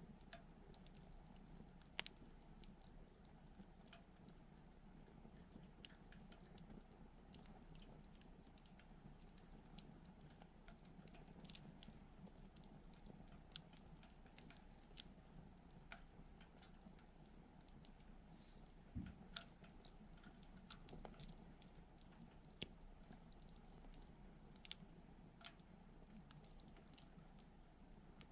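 Wood campfire crackling faintly, with scattered sharp pops from the burning wood. The loudest pops come about two seconds in and again near the end.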